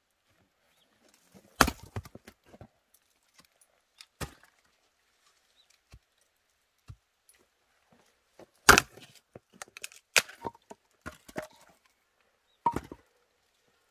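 Five or so sharp, loud clicks or knocks at uneven intervals, with fainter small clicks between them.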